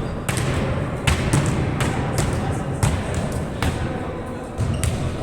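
A series of irregular sharp thuds and knocks, about six in five seconds, over a steady low rumble and faint voices.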